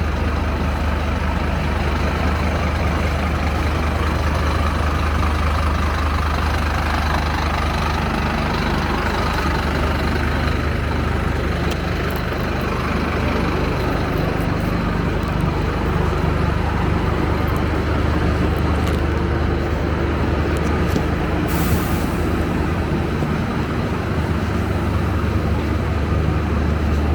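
Scania K270UB bus's five-cylinder diesel engine idling steadily while parked, with a short hiss of released air from the air system about three-quarters of the way through.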